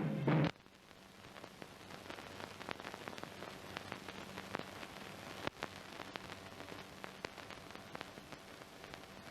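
Steady hiss with scattered faint crackles and clicks and a faint low hum: the surface noise of an old 1930s film soundtrack. A drum-heavy music passage cuts off about half a second in.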